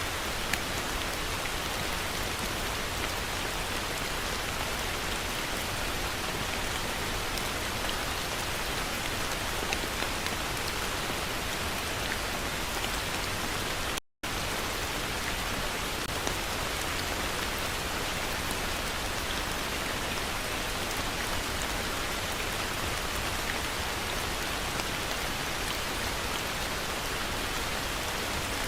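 Heavy rain falling steadily, with the odd louder drop standing out. The sound cuts out completely for an instant about halfway through, then resumes unchanged.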